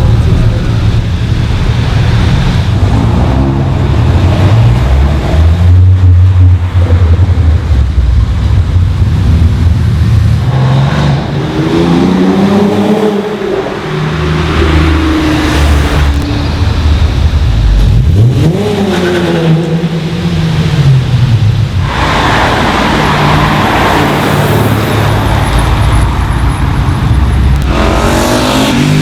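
Tuned cars' engines running and revving as they drive past, the pitch climbing and falling several times as they accelerate and lift off. A louder, rougher exhaust sound takes over for several seconds near the end.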